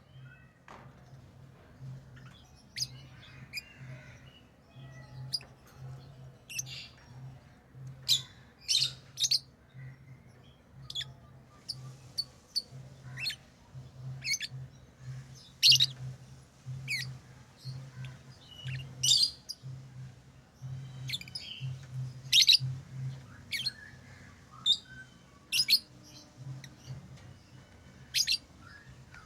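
Pet lovebirds giving short, shrill chirps and squawks at irregular intervals, some in quick pairs.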